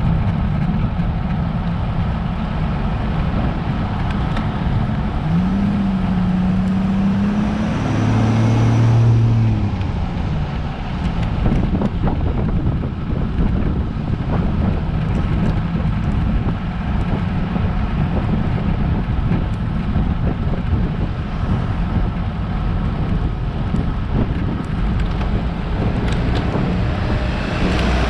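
Steady wind and road noise on a road bike's camera microphone during a climb. About five seconds in, a motor vehicle's engine tone rises and passes, fading by about ten seconds in.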